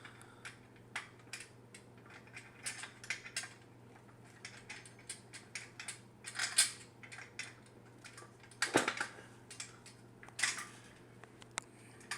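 Irregular metallic clicks, clinks and knocks of pliers working on the fitting of a hair steamer stand's base as it is tightened down, with a few louder clanks.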